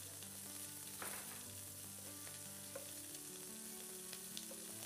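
Beef steaks and small whole onions in butter sizzling as they fry in pans, with a spoon stirring the onions. Faint background music with held notes underneath.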